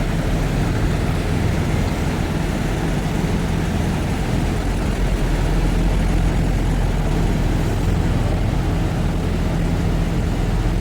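Semi truck running steadily down the road: an even, unchanging low engine drone mixed with road noise.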